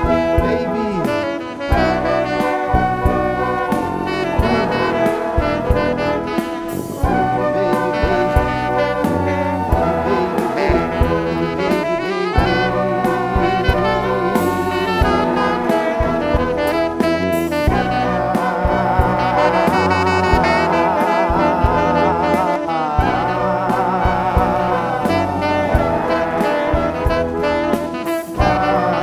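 Live band music with brass horns to the fore, playing held and wavering notes over a rhythmic bass and drum pulse.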